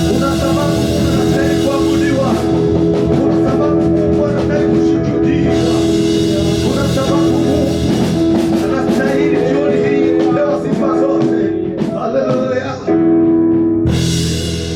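Gospel praise-and-worship music: a sung melody over a held instrumental chord, with drums keeping the beat.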